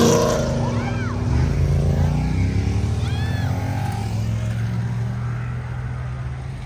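A car's engine running as it pulls away, its pitch rising as it accelerates, then fading near the end.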